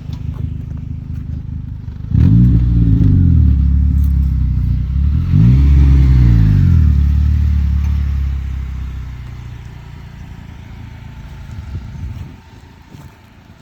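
2013 Honda Civic Si's 2.4-litre four-cylinder running at idle through a Flowmaster FlowFX axle-back muffler, blipped twice, about 2 and 5 seconds in. Each rev rises and falls in pitch, and the engine then drops back to a steady idle.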